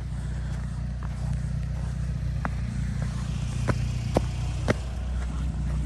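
Volkswagen Passat R-Line engine idling steadily, with a few short sharp clicks in the second half.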